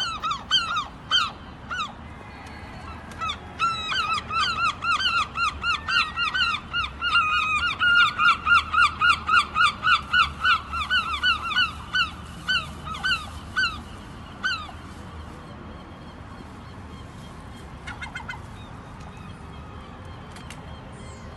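Seagulls calling: a long, rapid series of short, repeated yelping calls, about three a second at their loudest, that stops about two-thirds of the way through.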